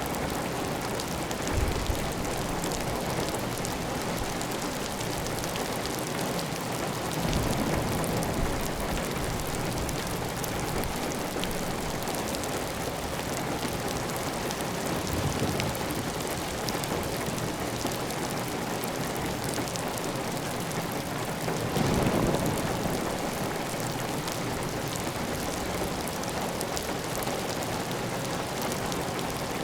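Heavy rain pattering steadily on a clay tile roof, with water running off the roof edge. A few brief heavier gushes or swells come through, the biggest about 22 seconds in.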